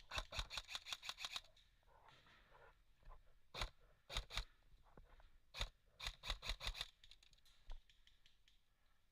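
Airsoft gun firing. It starts with a quick burst of about eight shots, then gives single and paired shots, then another short burst and one last shot near the end.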